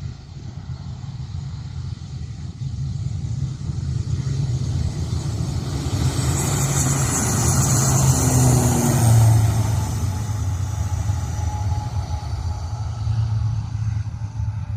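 An airliner passing over or by: a rushing engine noise with a high hiss that builds, is loudest about eight or nine seconds in, then fades, over a steady low rumble.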